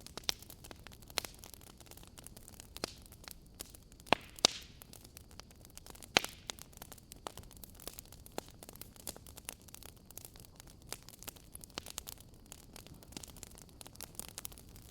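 Wood fire crackling: irregular sharp pops and snaps over a low, steady hiss, with a few louder pops around four to six seconds in.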